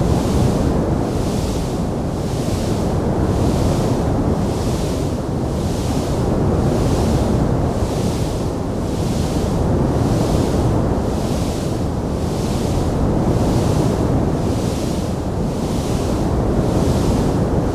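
A wood fire burning with a steady low rumbling roar and no distinct crackles. A fainter hiss above it swells and fades at a quick, even pace.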